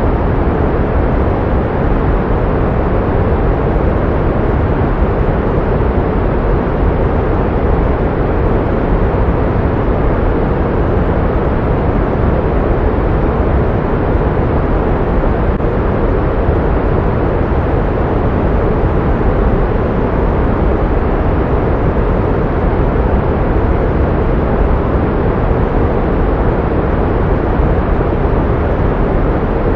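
Pink noise: a steady, unchanging hiss with most of its weight in the low end, thinning out toward the top.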